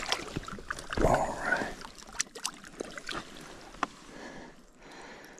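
Lake water splashing and sloshing as a cutthroat trout is let go from the hands back into the water, with the biggest splash about a second in, then smaller splashes and drips that fade.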